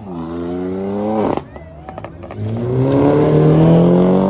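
Car engine accelerating hard, its revs climbing steadily. About a second and a half in the revs drop off and the engine goes quieter for about a second, then it pulls again with the pitch rising once more.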